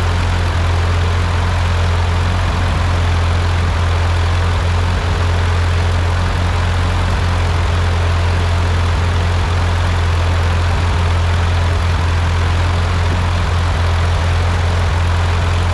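A freshly rebuilt Ford 8N tractor's four-cylinder flathead engine running steadily at an even speed.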